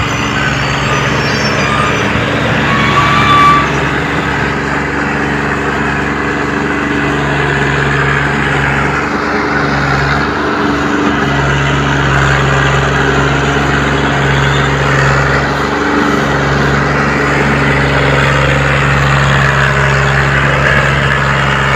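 Tractor engine running steadily, with a couple of brief dips in its note.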